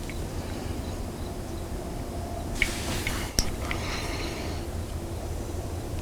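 Steady low background rumble, with a brief hiss shortly before the middle and one sharp click about three and a half seconds in.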